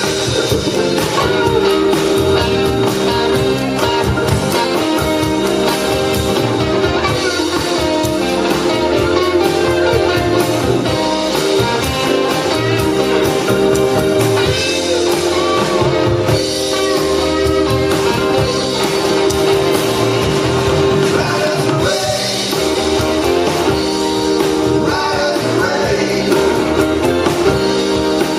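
Live blues band playing a song with electric guitar, drums and singing.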